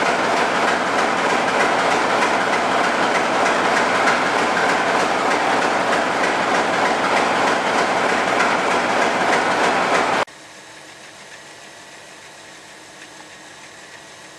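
General Electric U23B diesel-electric locomotive running loudly, a dense steady mechanical noise. About ten seconds in it cuts off abruptly to a much quieter steady hum.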